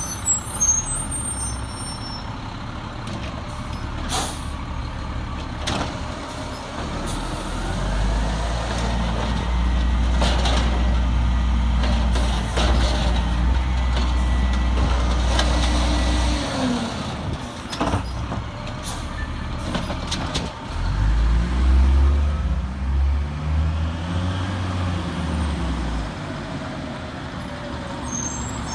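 Peterbilt 320 garbage truck's diesel engine revving up and held high for about eight seconds, then revving up and down again a few seconds later, as it drives the hydraulics of the Amrep automated side-loader. A few sharp clanks and knocks come through the engine sound.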